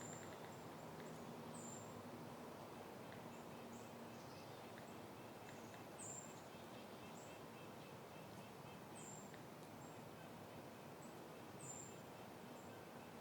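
Soft, steady wind noise, with a small bird repeating short, high chirps every one to three seconds.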